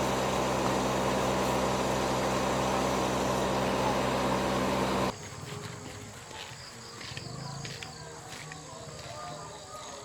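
An engine idling steadily, which cuts off suddenly about five seconds in, leaving quieter outdoor background with a few faint clicks.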